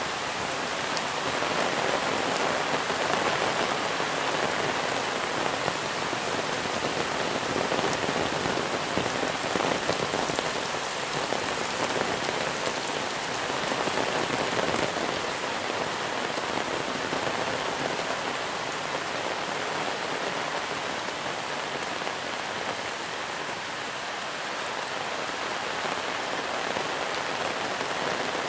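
Steady heavy monsoon rain falling and pattering on surfaces, a dense even hiss with fine drop ticks that swells a little and eases again.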